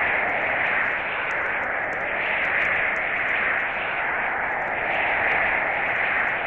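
Blizzard wind blowing as a steady rushing hiss that swells and eases every second or two.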